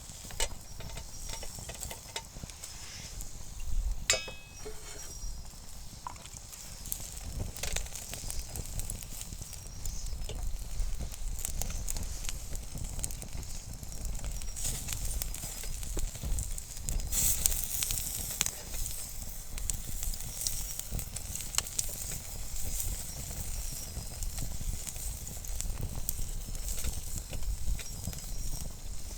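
Chicken skewers sizzling over a wood campfire, with scattered crackles and pops from the burning wood. A sharp knock sounds about four seconds in.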